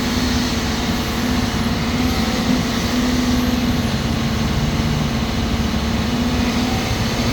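Heavy diesel earthmoving equipment running steadily: the engines of an articulated haul truck and an excavator loading it, a continuous low drone.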